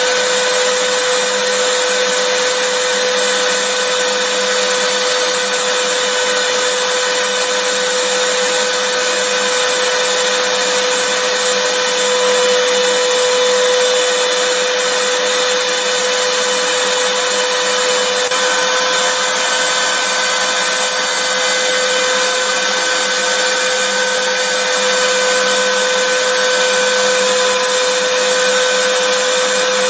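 Vacuum cleaner running steadily, a continuous hiss of rushing air with a steady motor hum.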